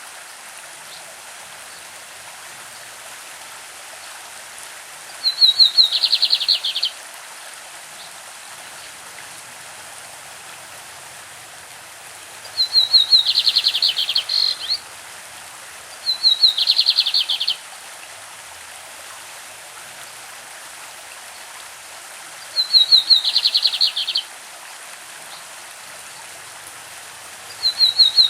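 Lined seedeater (bigodinho) singing its classic song: four short bursts of fast repeated high notes, each under two seconds, spaced several seconds apart, with a fifth starting at the very end. A steady hiss of running stream water lies underneath.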